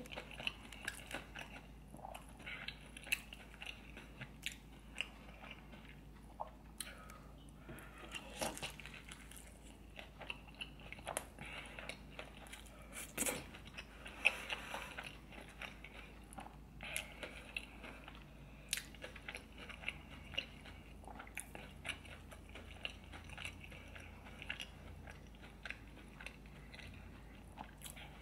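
Close-miked eating: a person biting and chewing deep-fried seafood, with crunches and wet mouth clicks coming irregularly, several a second.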